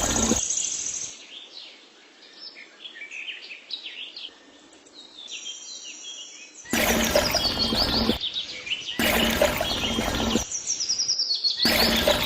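Small birds chirping and twittering, broken three times by a loud, rough, hissing sound lasting about a second and a half each time.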